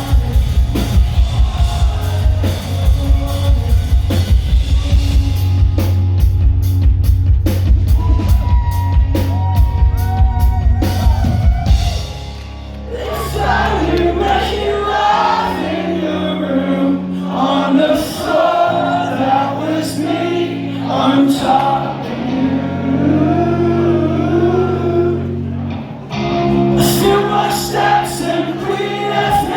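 A live band playing loud music. For the first twelve seconds, fast, driving drums and heavy bass. Then the drums mostly drop out, and singing carries on over sustained bass and keyboard notes.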